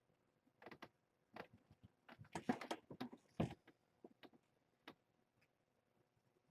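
Faint scattered rustles and light taps from handling and movement among kittens in a kennel, loudest in a cluster between about two and three and a half seconds in.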